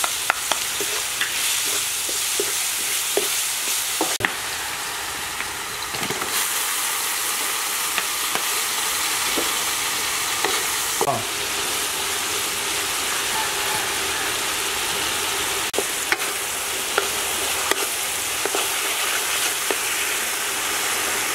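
Chopped aromatics and chilies frying in hot oil in a wok, with a steady sizzle, stirred with a wooden spatula that knocks against the pan a few times.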